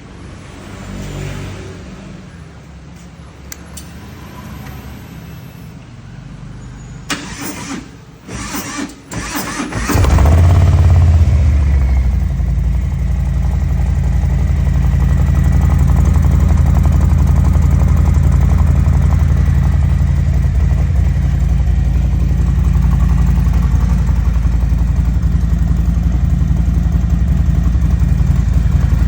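Harley-Davidson Low Rider's V-twin engine being cranked and catching about ten seconds in, surging briefly, then settling into a steady idle.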